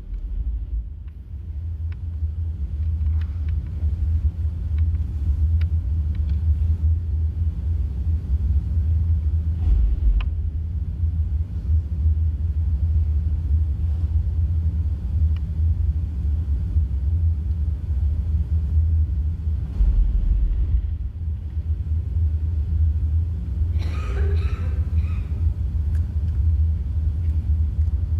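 A loud, steady, deep rumble, with a brief higher, pitched sound about 24 seconds in.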